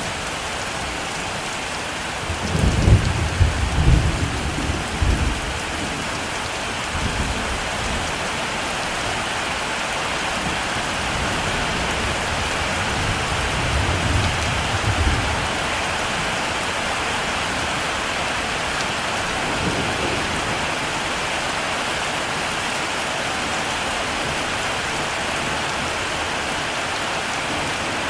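Heavy rain falling steadily, with thunder rumbling low twice: a rolling peal about two seconds in lasting some four seconds, and a softer one around the middle.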